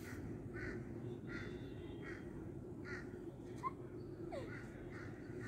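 Birds calling outdoors, a harsh call repeated over and over about every half second, with a couple of short whistled chirps in the middle.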